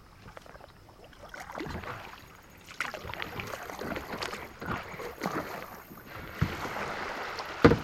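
Kayak paddle dipping and splashing in calm water in uneven strokes, with small clicks and drips between them and one sharp knock near the end.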